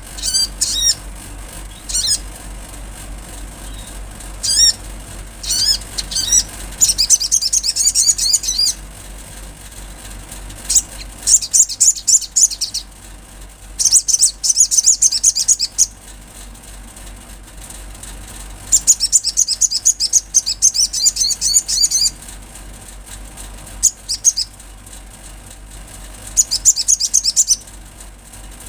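Little spiderhunter (sogok ontong) singing: bursts of rapid, high, thin chirps, each run lasting about one to two seconds, repeated several times with single sharp notes between them. A steady low hum lies underneath.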